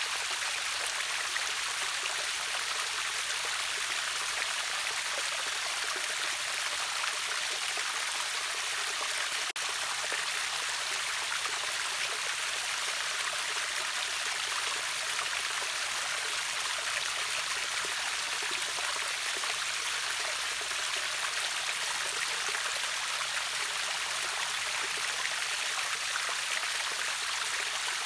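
River waterfall rushing steadily: an even, hissing wash of falling and flowing water, with a momentary dip about nine and a half seconds in.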